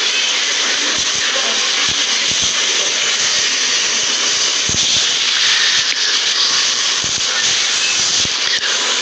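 Loud, steady hiss of recording noise, with no speech over it.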